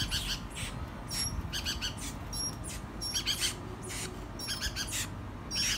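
Birds calling: a run of short, high chirps and squawks in quick clusters, several times a second.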